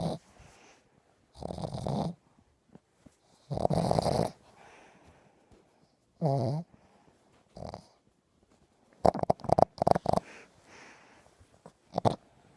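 Small dog snoring in its sleep, a snore every two to three seconds. About nine seconds in comes a quick run of short, sharp sounds.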